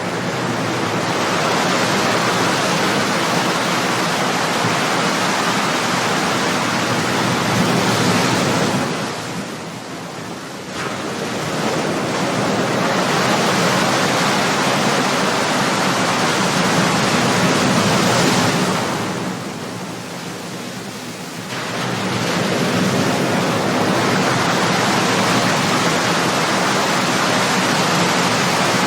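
Ocean waves breaking and washing onto a shore in a steady rush of surf, easing off twice in short lulls between waves.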